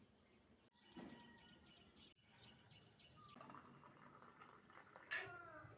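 Faint bird chirps, short and repeated, over quiet background noise, with one louder falling call about five seconds in.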